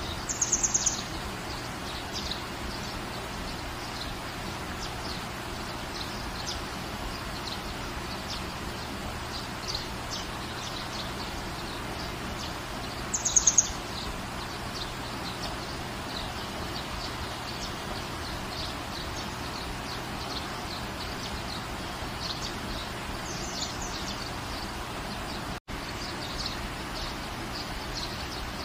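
Steady rain falling in a garden, with birds chirping through it; two louder, high-pitched bird trills stand out, about half a second in and about 13 seconds in. The sound cuts out for a split second near the end.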